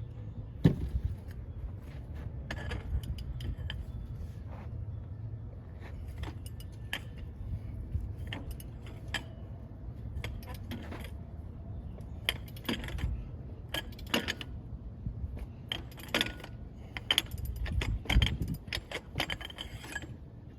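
Repeated light metallic clinks and rattles of tools and brake parts being handled, scattered irregularly, over a steady low hum.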